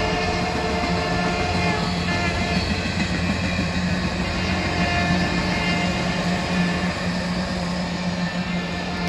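Canadian Pacific Holiday Train's cars rolling past on the rails: a steady rumble with a constant low hum, easing slightly near the end.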